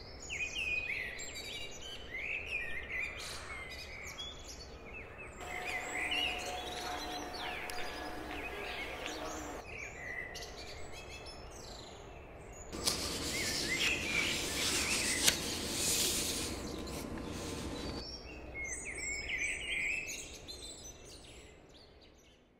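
Outdoor ambience of small birds chirping and twittering over a steady low background hum. A louder rushing noise swells in for several seconds past the middle.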